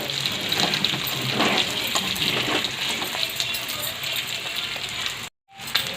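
Chicken pieces frying in hot oil in a kadhai over a high flame: a steady sizzle with a few faint clinks. The sound cuts out for a moment about five seconds in.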